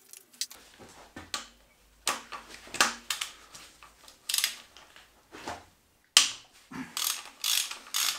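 Hand work on engine parts at a workbench: a series of short scrapes, clicks and knocks, about nine in all, a few of them drawn out.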